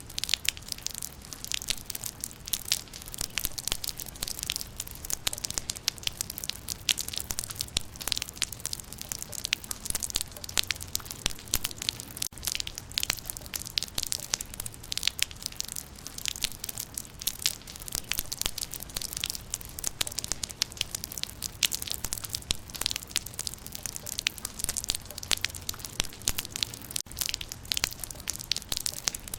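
Steady rain falling on leaves: a dense, constant patter of many small drop impacts, with a faint low rumble beneath.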